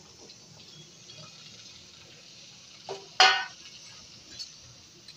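Green beans and cubed potatoes frying in hot oil in a kadai, with a faint steady sizzle. About three seconds in comes one loud metal clank with a short ring, with a lighter knock just before it.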